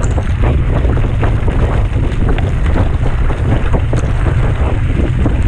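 Wind buffeting the microphone during a fast mountain-bike descent, with the bike rattling and knocking over rough ground in quick, irregular clicks.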